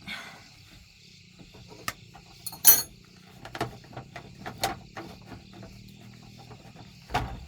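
Metal tools knocking and clinking on metal parts in a run of irregular taps, with one sharp ringing clink about two and a half seconds in, over a steady chorus of insects.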